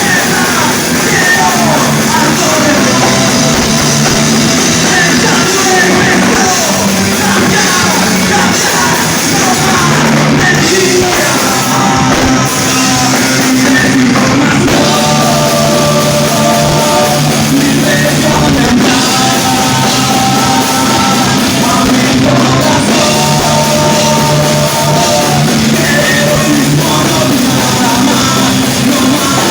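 A rock band playing live and loud, with a singer: the sung line bends and slides in the first half, and in the second half repeated held melodic notes ring over a steady low bass line.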